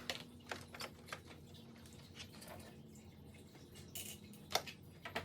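Scattered light clicks and taps of a Phillips screwdriver and small screws against a printer's plastic case, irregular and a second or so apart.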